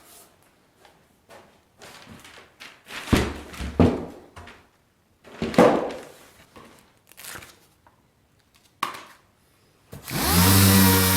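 A series of separate knocks and clunks, like parts and tools being handled on a bench. About ten seconds in, a motor starts up, rising to a steady hum.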